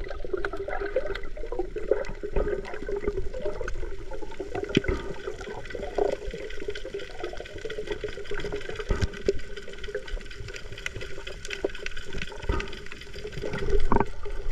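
Water splashing and sloshing in an uneven stream of small splashes, over a steady low hum.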